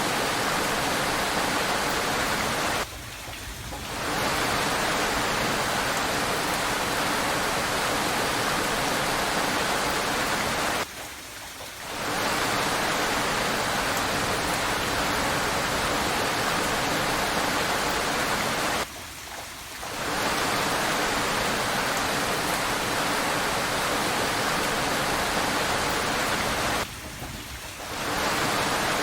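Steady rain, an even hiss with no single drops standing out. About every eight seconds it dips sharply for a second and then swells back up.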